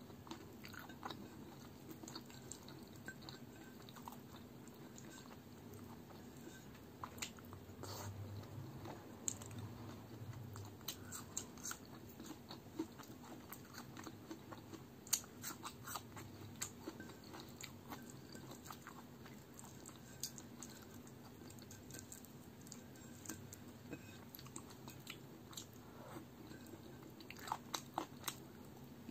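Close-up chewing and biting of chicken in spinach gravy, eaten by hand, with wet mouth sounds and many short sharp clicks and crunches as meat is bitten off the bone.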